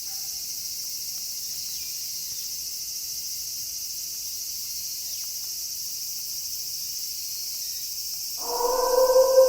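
Night chorus of insects, a steady high-pitched chirring. Near the end a wolf starts a long howl, one held note that slowly falls in pitch and becomes the loudest sound.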